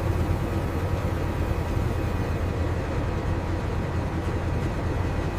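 Steady low rumble and hum of flour-mill machinery running, with no changes or impacts.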